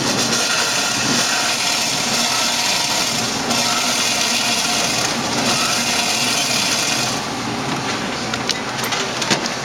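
Blender on its pulse setting, crushing a full cup of ice with water and syrup into a slushie: a loud, dense grinding that dips briefly a few times and gets quieter about seven seconds in.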